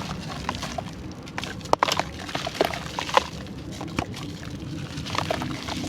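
Dry charcoal clay crunching and crumbling, some of it in water: irregular sharp cracks and crackles over a steady low hum.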